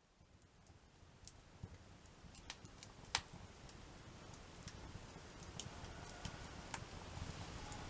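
Wood fire crackling: scattered sharp pops and snaps of burning wood over a low rumble, growing louder over the first few seconds.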